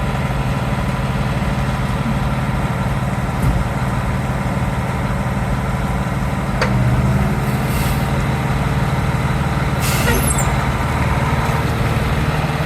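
Fire ladder truck's diesel engine running steadily at a low rumble, with a short hiss of air from its air brakes about ten seconds in and a couple of faint clicks.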